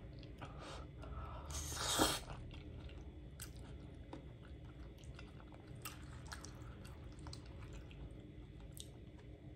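Close-miked chewing of a mouthful of cheesy baked spaghetti squash, loudest about two seconds in, then soft, scattered wet clicks of chewing.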